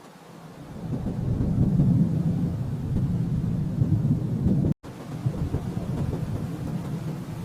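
Distant thunder rolling in a long low rumble that swells over the first couple of seconds. The sound drops out completely for an instant a little before five seconds in, then the rumble carries on and slowly fades.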